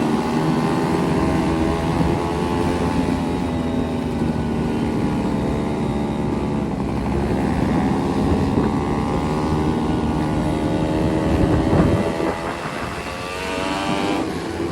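Motorcycle engines running on the move, their pitch rising and falling several times as the throttle is opened and closed.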